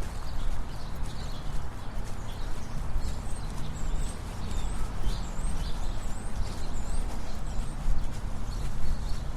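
Brisk footsteps on a city sidewalk over a low rumble. Midway through, a bird gives a string of short, high chirps.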